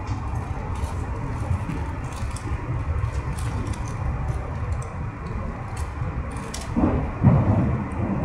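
Cabin running noise of a Taiwan Railways Puyuma Express (TEMU2000 tilting electric multiple unit) under way: a steady low rumble with light, scattered rattles and clicks. A brief louder swell comes about seven seconds in.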